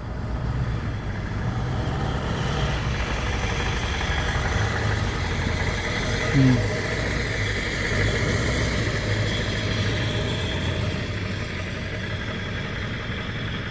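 Engine idling steadily with a low rumble. A short, falling, voice-like call cuts through once about six and a half seconds in.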